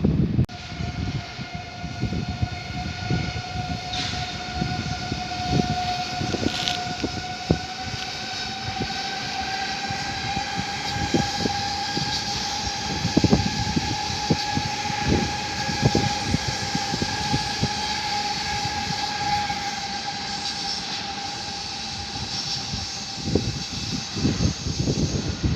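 A train running through, with a long steady whine that rises slowly and slightly in pitch, over irregular knocks and rumble.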